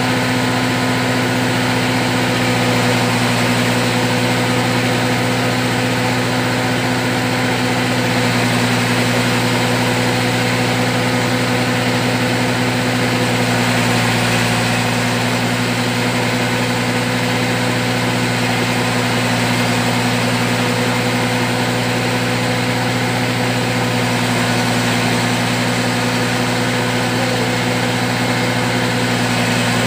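Fish-feed pellet machine running steadily under test, its drive engine humming at an even speed with no change in pitch.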